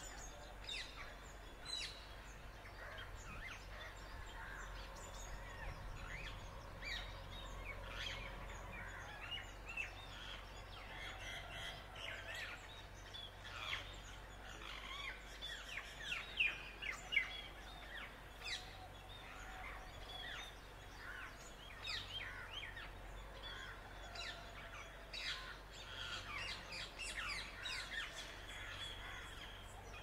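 Birds chirping and calling: many short, quick calls overlapping, busiest and loudest around the middle, over a low steady background rumble.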